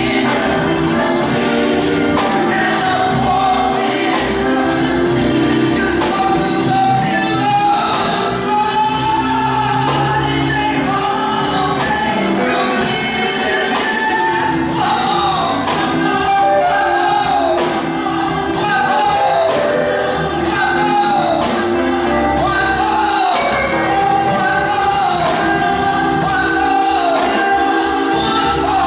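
Gospel music: voices singing together over a band, with a steady percussive beat.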